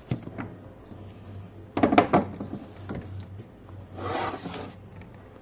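Food storage containers being handled on a refrigerator shelf: a few knocks about two seconds in, then a rubbing, scraping sound about four seconds in, over a low steady hum.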